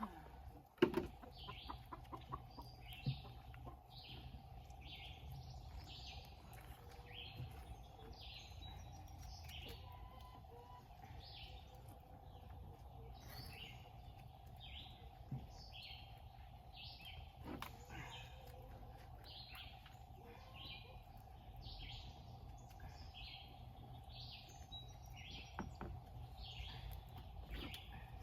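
Birds chirping: a steady run of short, high chirps, a couple a second, over a faint steady hum. A few sharp knocks come about a second in.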